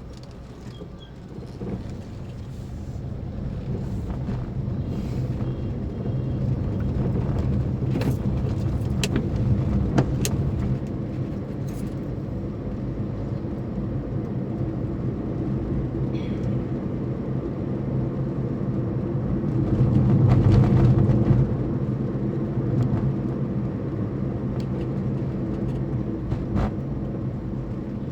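A car driving along a road: steady engine and road rumble that builds over the first few seconds and swells about twenty seconds in, with a few brief sharp knocks along the way.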